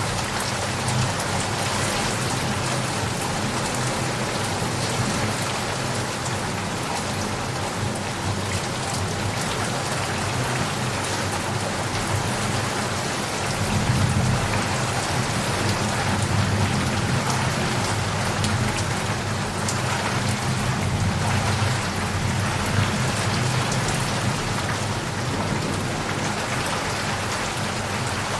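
Steady heavy rain falling and pattering on surfaces, with a low thunder rumble swelling about halfway through.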